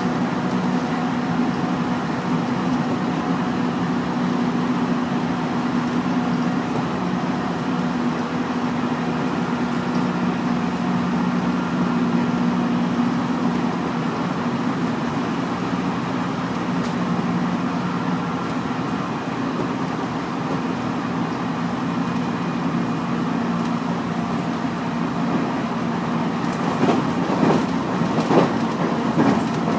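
JR Central 311 series electric train running at speed, heard from inside the car: a steady motor and running hum, with the wheels clacking over rail joints in the last few seconds.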